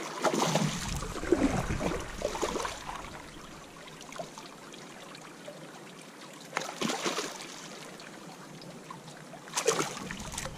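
Water splashing in bursts as a hooked largemouth bass is fought to the side of a kayak: a longer stretch of splashing over the first few seconds, another short splash about seven seconds in and a brief one near the end.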